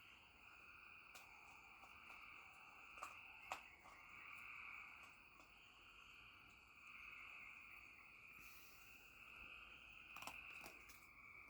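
Faint, steady chorus of crickets with a few soft clicks scattered through it.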